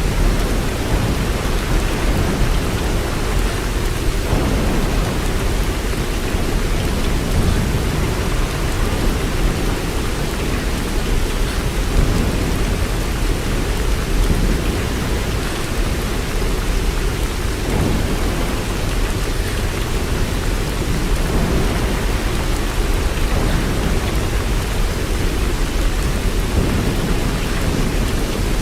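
Steady heavy rain: a dense, even wash of noise, strongest in the low end, running without a break.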